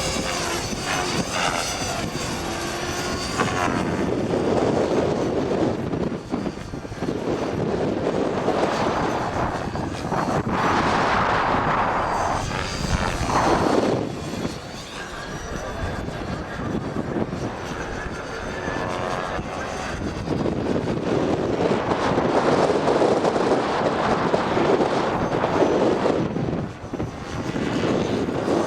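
Electric radio-controlled model helicopter flying, its rotor and motor noise mixed with strong wind buffeting the microphone in surges that rise and fall every few seconds.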